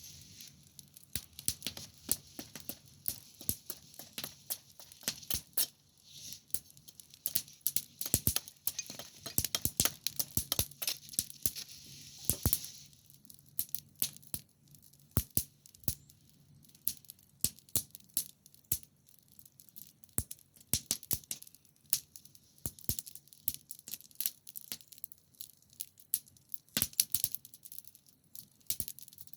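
Wood fire (campfire) crackling, with irregular sharp pops and snaps throughout. A steady high hiss accompanies the crackle for about the first twelve seconds and then stops abruptly, leaving the pops over quieter background.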